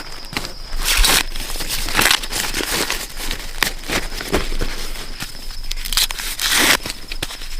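Dry corn husks and leaves rustling, crinkling and tearing in irregular handfuls, with a faint steady high-pitched tone underneath.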